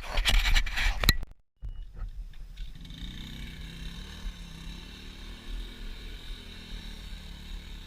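Pit bike's small single-cylinder engine running: a loud, rough burst for about the first second, a sudden cut, then the engine running steadily at a lower level for the rest.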